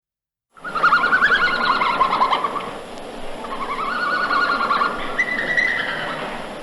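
A bird singing in quick runs of rapid warbling notes, in three phrases with short breaks between them.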